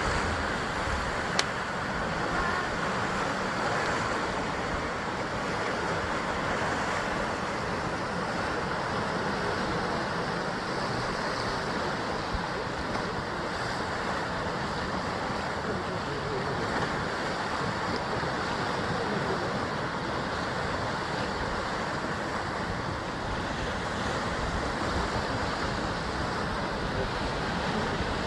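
Sea surf washing steadily against a rocky basalt columnar-joint shore, a continuous rushing wash of waves. One sharp click about a second and a half in.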